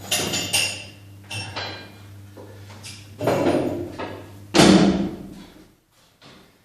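Metal gym weights clanking and knocking together four times, with a metallic ring, the last knock the loudest, over a steady low hum that stops with it.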